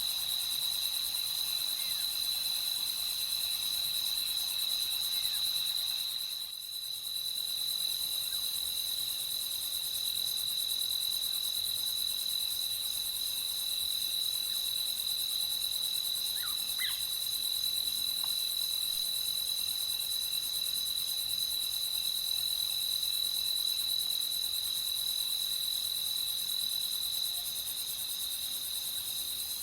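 Night insect chorus: crickets trilling steadily in one continuous high-pitched drone. It dips briefly about six seconds in, and a faint short chirp comes through around the middle.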